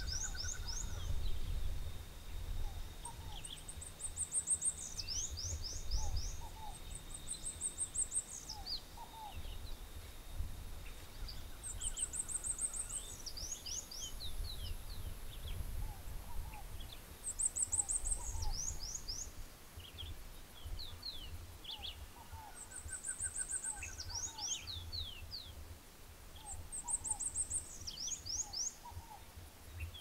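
Bird song: one bird repeats the same phrase every four to five seconds, a high buzzy trill followed by a quick run of down-slurred notes. Other birds call more softly in lower notes, over a thin steady high tone in the first part and a low rumble.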